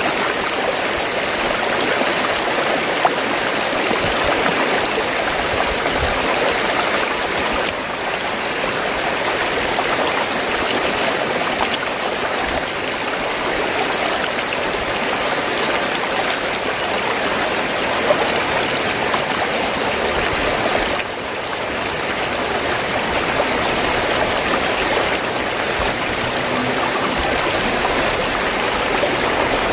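Fast-flowing stream water, rushing and gurgling steadily.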